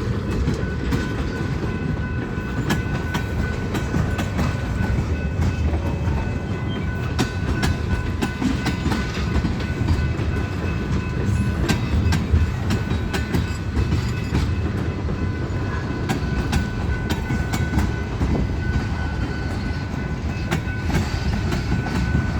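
Freight train rolling past slowly: a steady rumble of railcars with wheels clicking over rail joints, and a faint steady whine from the wheels.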